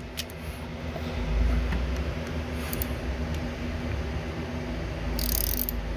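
A low rumble with light handling clicks, then about five seconds in a socket wrench ratchet starts clicking rapidly as the cylinder head cover fasteners are run down.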